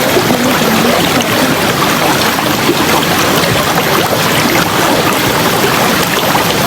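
River water rushing and flowing, a steady, even rush.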